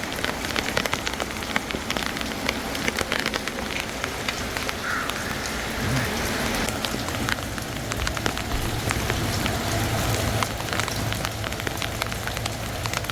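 Steady rain falling, with many sharp taps of raindrops striking the phone close to its microphone.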